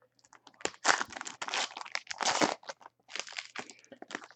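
A Panini Court Kings trading-card pack being torn open, its wrapper crinkling in a run of irregular crackling bursts.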